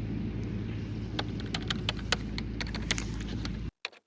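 Steady low rumble with a scattered run of sharp clicks and ticks in its second half, cutting off abruptly near the end.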